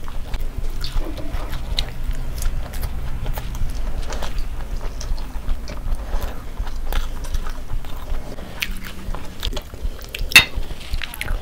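Close-miked chewing and biting of food, with many small crackly mouth clicks. About ten seconds in, one sharp clink with a short ring, from two drinking glasses touched together in a toast.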